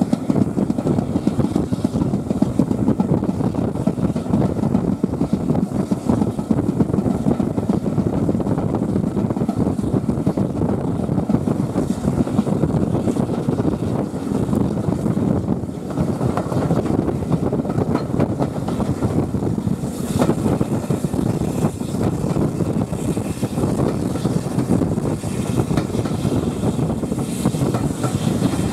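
Heritage railway carriage running along the track, a steady rumble of the wheels on the rails with wind noise on the microphone. Faint clicks from the wheels come in for the last several seconds as the train nears the sidings' pointwork.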